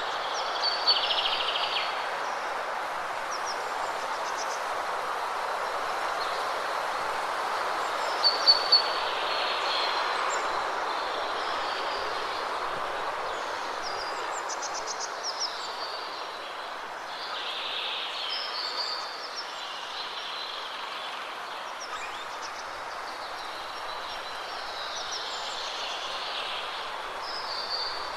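Waterfall rushing steadily, with small birds chirping on and off above it; a quick run of loud chirps about eight seconds in.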